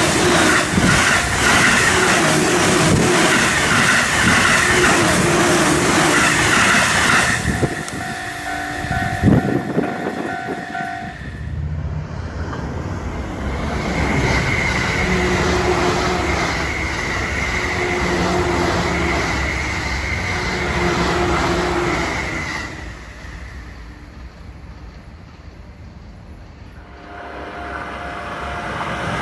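JR East E531 series electric commuter trains passing at high speed, about 130 km/h: a loud rush of wheels on the rails with some rhythmic clacking. One pass fades, another follows after a cut, and a third starts building near the end.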